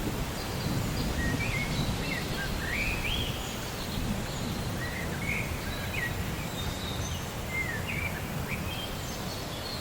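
Several birds chirping and whistling in short, quick rising-and-falling calls over a steady low background rumble of rainforest ambience.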